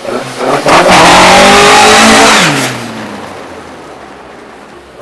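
Classic rally car engine revving hard as the car accelerates away, very loud with a rising pitch for about two seconds, then dropping off and fading as it pulls away.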